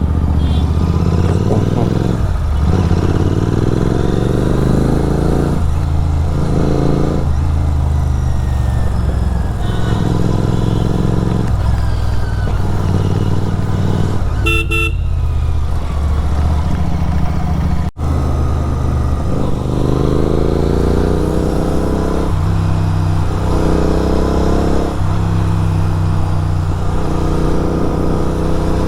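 Superbike engine with a full-system aftermarket exhaust, accelerating and shifting repeatedly, the pitch climbing and then dropping at each gear change. A short horn toot about halfway through.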